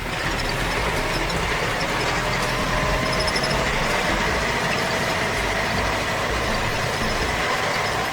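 Heavy construction vehicle's engine running steadily, with a faint whine over the noise.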